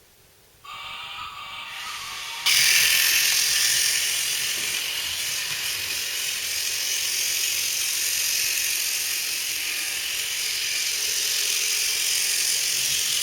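Battery-powered plastic toy train running on its track, its small electric motor and plastic gears making a steady buzzing whir. It starts quietly about half a second in and gets much louder about two and a half seconds in.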